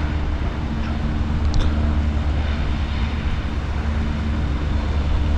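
Steady low droning rumble of a distant engine, with a faint constant hum over it.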